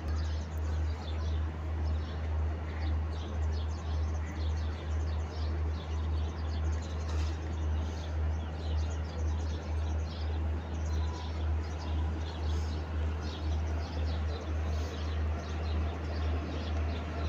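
Birds chirping and calling over a steady low hum that pulses evenly, about two to three times a second.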